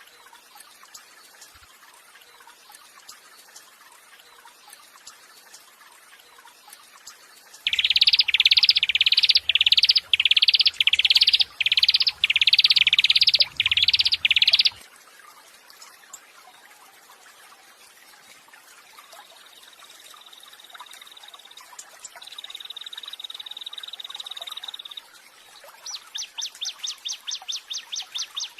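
Recorded songbird calls for bird training, played over faint trickling water. After about eight seconds of just the water comes a loud run of about ten rising whistled notes, then a steady high note held twice. Near the end a fast trill starts, at about six notes a second.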